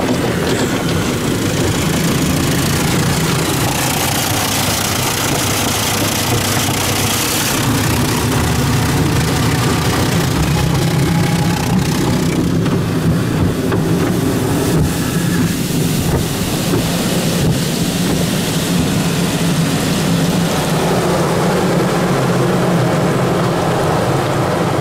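Tunnel car wash running around a truck, heard from inside the cab: a steady mix of low machinery hum and hissing water spray, the hiss growing brighter for a few seconds about four seconds in.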